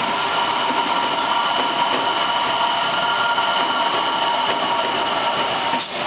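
Tangara electric multiple-unit train running into the platform: a steady rumbling rush with high, even whining tones from the motors. There is a single sharp click near the end.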